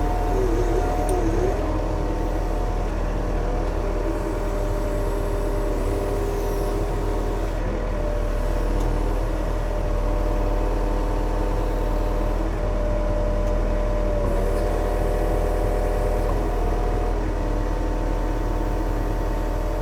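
Diesel engine of a Yanmar machine running steadily under work, with a constant drone and a few steady whining tones whose pitch shifts slightly now and then.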